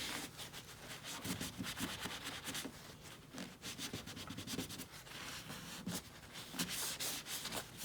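A cloth rag rubbing in repeated scratchy strokes over a truck's painted body panel, wiping the surface clean with isopropyl alcohol solution to prepare it for a new badge.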